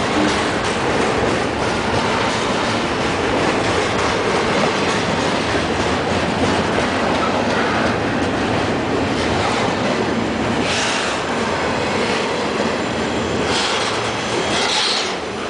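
Double-stack container cars of a freight train passing close by, steel wheels clattering and rumbling steadily over the rail joints. A couple of brief high-pitched screeches rise over the rumble about two-thirds of the way through and again near the end.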